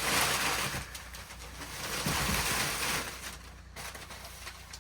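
Rustling and scraping of objects being handled and moved, loudest in the first second and again about two to three seconds in.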